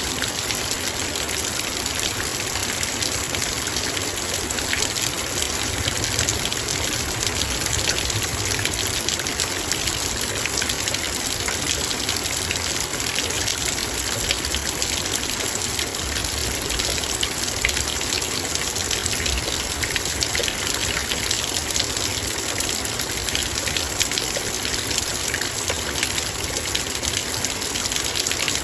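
Heavy rain falling steadily, many drops hitting a metal bowl as a dense hiss full of fine taps.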